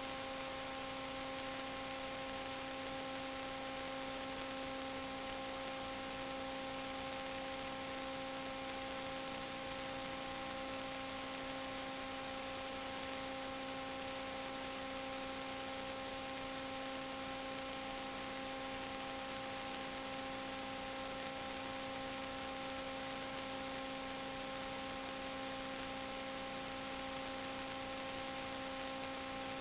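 A steady, unchanging hum made of several even tones over a constant hiss.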